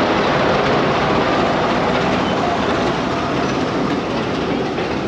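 Heritage railway train running loudly along the track, a steady rolling noise of wheels on rails that eases slightly in the second half as the train comes in to stop.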